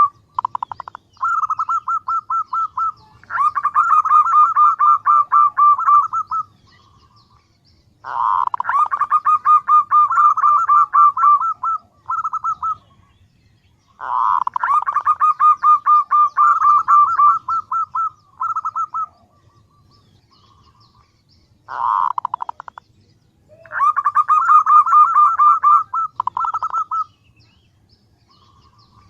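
Female zebra dove calling to males. It gives rapid, pulsed, rattling call series in about six bouts of one to five seconds each, separated by short pauses.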